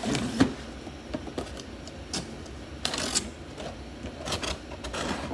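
Scattered clicks, knocks and rustles of aerial firework shells being handled and packed back into their container.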